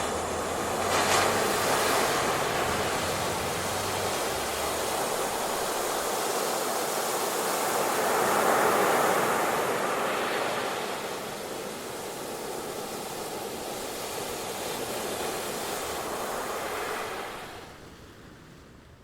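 Ocean surf: waves breaking and washing up the shore, with one surge about a second in and a bigger one building and breaking about eight to nine seconds in. The surf then settles lower and fades out about a second before the end.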